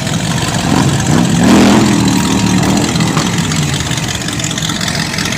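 Classic cars driving past with their engines running; one passes close about a second and a half in, its engine note swelling and bending in pitch as it goes by.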